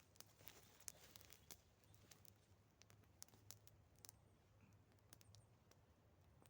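Faint, sparse crackles and clicks of a small campfire burning damp wood, irregular, with a few sharper snaps in the first few seconds.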